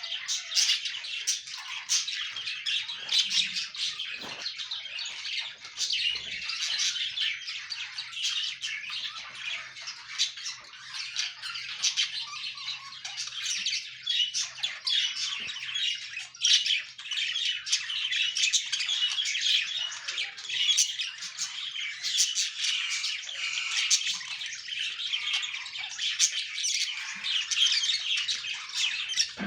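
A colony of budgerigars chirping, warbling and squawking all at once, a dense, continuous chatter of many birds.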